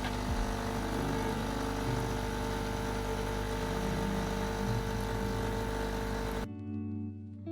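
A steady mechanical hum with a steady tone in it, which cuts off abruptly about six and a half seconds in. Guitar music follows.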